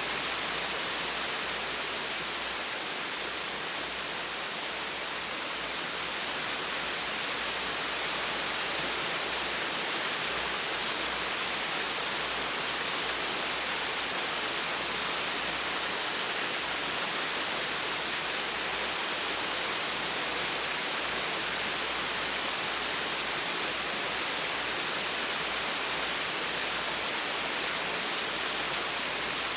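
A gentle waterfall: water falling and splashing in a steady, even hiss that neither swells nor breaks.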